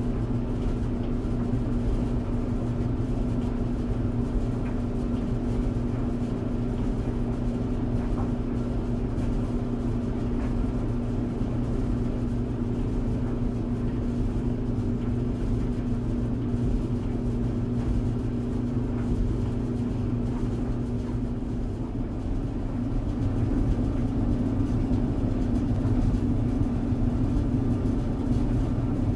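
Clothes tumble dryer running: a steady low drone with a constant hum, dipping briefly about two-thirds of the way through and then running slightly louder.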